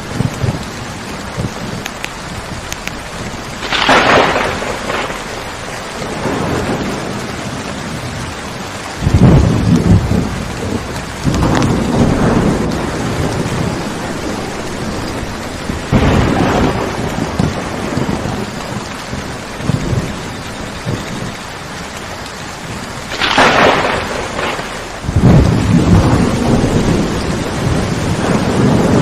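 Thunderstorm: steady heavy rain with repeated thunder. There is a sharp crack a few seconds in and another near the end, with low rolling rumbles in between.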